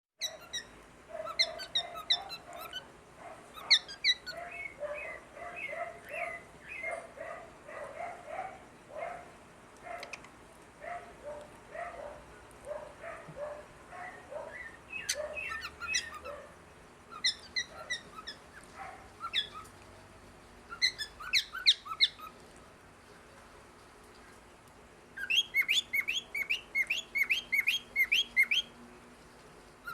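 Cockatiel chirping and calling. Short notes repeat about twice a second through the first half, then bursts of sharp, high chirps follow, ending in a fast run of chirps near the end.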